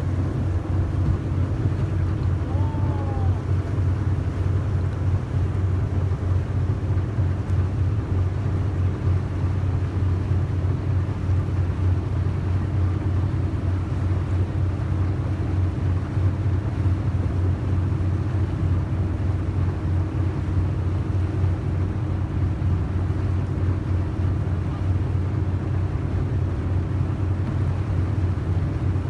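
Engine of a yakatabune (Japanese roofed pleasure boat) running steadily under way, a low, even drone.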